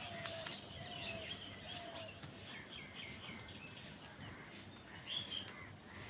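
Birds chirping and calling around a feeding flock of house crows: a quick run of short chirps with a lower falling note repeated beneath them in the first two seconds, then a single louder call about five seconds in.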